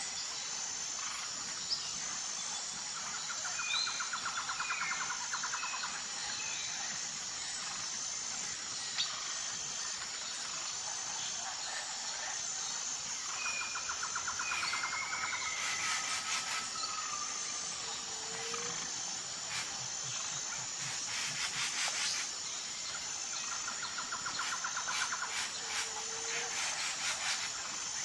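Nature soundscape: a steady high-pitched pulsing insect chorus, with birds chirping and trilling over it several times.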